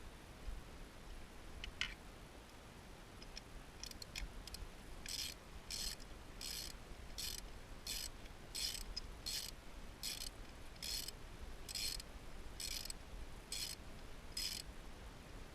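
Ratchet wrench being worked in short strokes, a burst of ratcheting clicks about every 0.7 s, starting about a third of the way in after a few scattered clicks.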